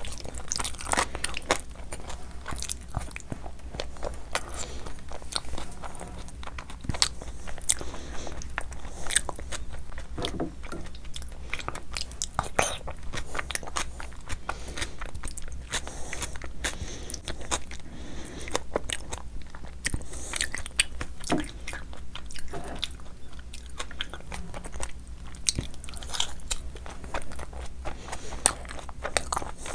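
A person chewing big mouthfuls of soft khichdi, mutton liver curry and seekh kebab eaten by hand, with many quick wet smacks and clicks of the mouth all through.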